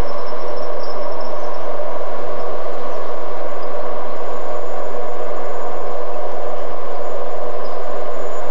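Steady rumble and hum of a freight train hauled by New Zealand EF class electric locomotives running along the line, with a faint high whine in the first second or two.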